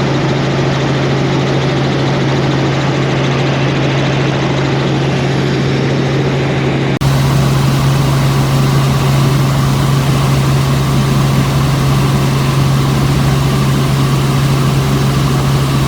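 Helicopter in flight, its engine and rotors making a steady loud drone with a strong low hum. A short dip comes about seven seconds in, after which the drone is a little louder.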